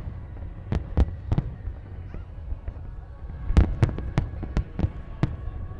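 Aerial fireworks shells bursting: three sharp bangs about a second in, then a quicker run of about seven bangs in the second half, over a low rumble.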